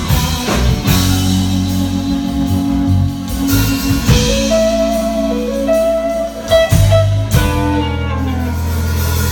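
Instrumental passage of a rock or blues song: guitar playing over bass and drums.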